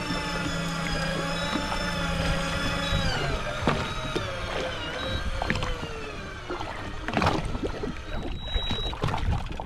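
Daiwa Seapower 800 electric fishing reel winding in line under the load of a fish hooked deep, a steady motor whine. About three seconds in the whine drops in pitch and fades away over the next few seconds as the reel slows with the fish nearly up, leaving scattered clicks.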